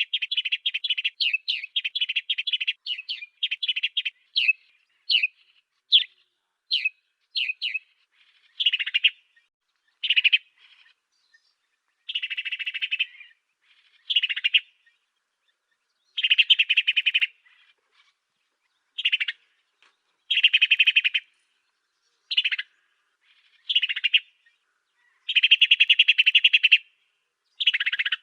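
Song of the bird sold in Indonesia as 'burung gereja afrika' (African sparrow): a fast run of short high chirps at first, then separate chirps alternating with buzzy trills about a second long.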